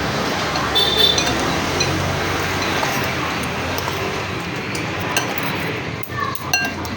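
Cutlery and dishes clinking during a meal, with one ringing clink about a second in and a few small ticks near the end, over steady background noise.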